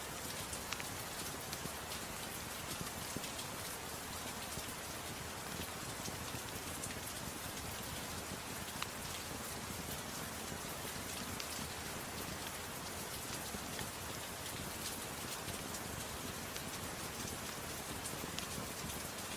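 Steady soft rain mixed with a crackling wood fire in a fireplace: an even hiss dotted with many small sharp pops and ticks.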